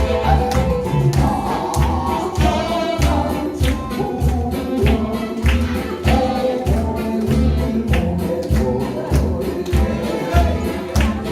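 A live band playing a song with singing over a steady bass and drum beat.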